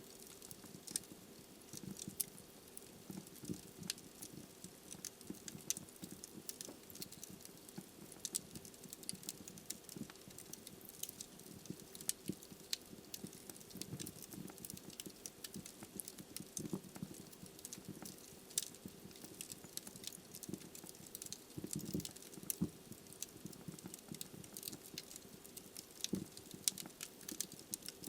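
Wood fire burning in a fireplace: logs crackling with frequent irregular sharp pops over a soft steady hiss.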